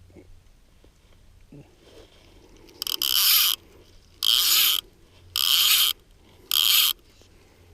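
Click-and-pawl fly reel buzzing four times in quick succession as line is pulled off it by hand, each pull lasting about half a second.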